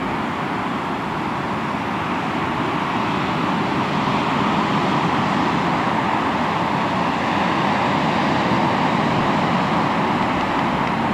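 Sea waves washing onto the shore: a steady surf wash that swells slightly about halfway through.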